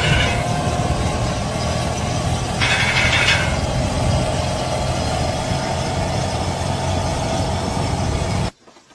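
A vehicle engine running steadily, with two short bursts of higher hissing noise, one at the start and one about three seconds in. It cuts off abruptly near the end.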